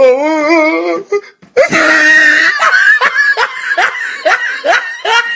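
A person laughing loudly in short, rising 'ha' bursts, about three a second, after a wavering held vocal sound and a harsh shriek-like burst.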